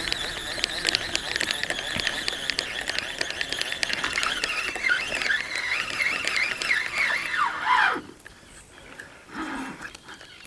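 Feeder cast: braided line streaming off a spinning reel's spool through the rod guides with a fast ticking whine, which drops in pitch and cuts off abruptly about eight seconds in as the line stops at the reel's line clip.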